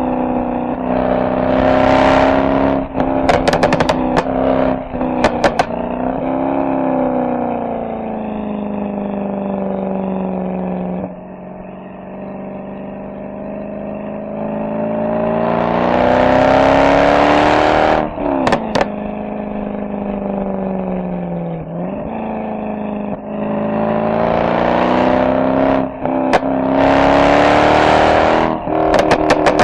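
Mercedes-AMG SL63 V8 exhaust pulling hard several times and easing off between pulls, with sudden drops in pitch at the gear changes. Sharp crackles and pops come after several of the pulls, about a second in, a few seconds in, after the middle pull and near the end.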